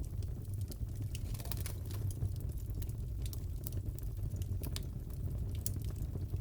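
Crackling wood fire in a fireplace: irregular sharp pops and snaps over a steady low rumble.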